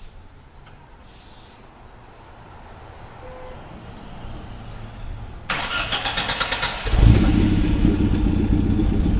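Toyota HiAce minibus engine starting. After a low rumble, the starter cranks in a rapid chatter from about five and a half seconds in. About a second and a half later the engine catches and runs loudly and steadily.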